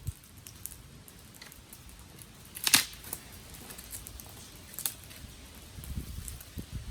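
Dry twigs and sticks cracking: scattered small crackles, with a sharp snap a little under three seconds in and another near five seconds. A low rustle builds near the end.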